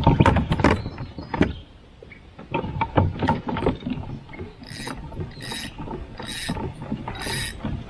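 Irregular mechanical clicks and knocks of fishing gear being worked on a kayak, with a fishing reel being cranked. In the second half there are four short hissing bursts.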